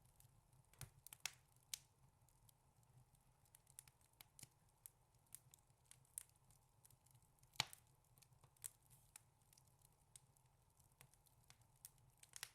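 Wood fire in a fireplace crackling softly, with scattered irregular snaps and pops and one louder pop a little past halfway.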